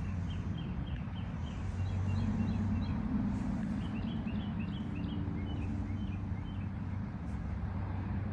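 A small bird chirping short, quick notes, about four a second, in two runs with a brief pause between. Under it runs a steady low mechanical hum.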